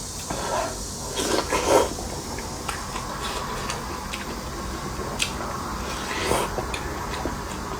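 A person eating close to the microphone: wet chewing and slurping mouth sounds, loudest about a second and a half in and again past six seconds, with a sharp click about five seconds in.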